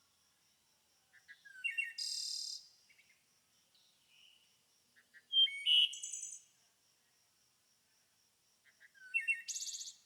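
A songbird singing three short phrases a few seconds apart, each a few quick notes leading into a fast, buzzy high trill, over a faint steady high-pitched hum.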